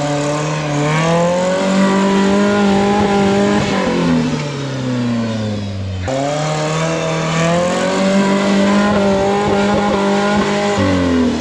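Off-road rig's engine revved hard twice while climbing a rock-crawling obstacle: each time the pitch climbs, holds high for a few seconds, then drops away.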